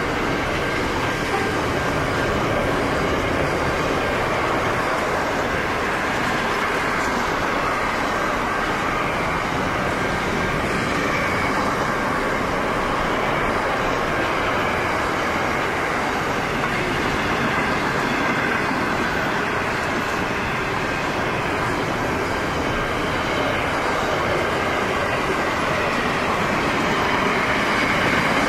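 Freight train wagons, container flats and flat wagons, rolling past close by: the steady rumble and rolling noise of steel wheels on the rails, with a thin high whine running through it.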